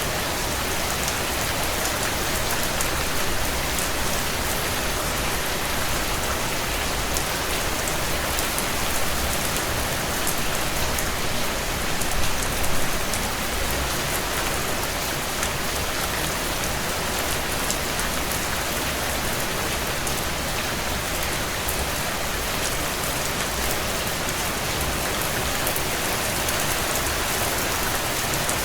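Heavy rain drumming steadily on a tin roof, a dense even patter of drops with a few slightly louder gusts about twelve seconds in.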